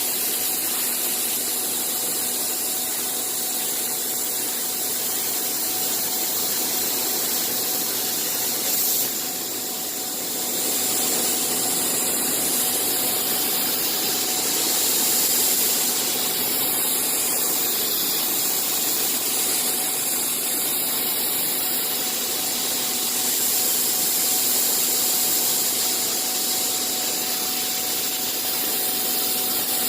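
Bystronic CNC machine running steadily: an even hiss with faint steady hums beneath it, dipping briefly about nine seconds in.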